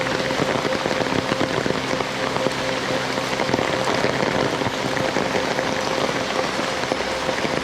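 Heavy rain falling, a dense, steady hiss with countless drops pattering on surfaces. A steady humming tone runs underneath.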